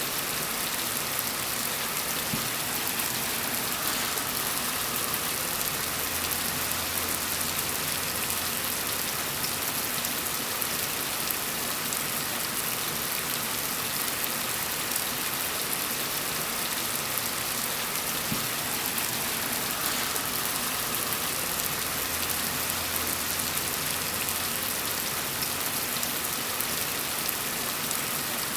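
Steady rain falling, an even hiss of many fine drops with no breaks. A faint low hum swells in twice for a few seconds.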